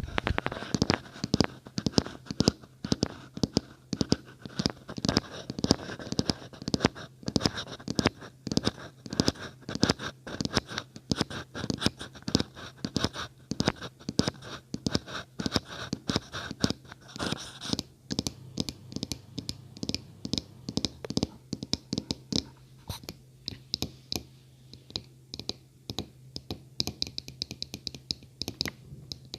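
Close-up ASMR tapping and scratching on an object: a rapid, uneven run of taps and scrapes. About eighteen seconds in it changes to lighter, sharper taps.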